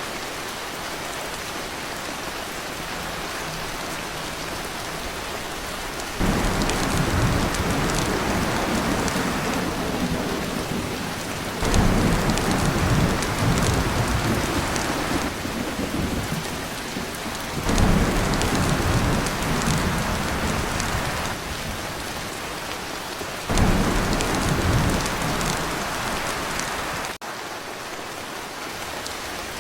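Heavy rain pouring on a tin roof, a steady hiss, with thunder breaking in about six seconds in and rumbling on in several waves, each swelling in suddenly.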